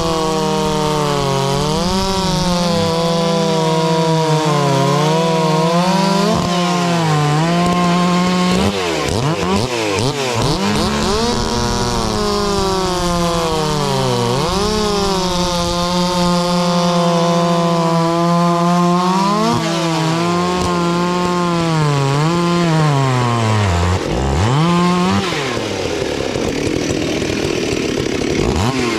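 Two-stroke chainsaw running at high revs, its pitch sagging and recovering as it cuts. The throttle drops off and picks up again several times, most sharply about nine seconds in and again near twenty and twenty-four seconds.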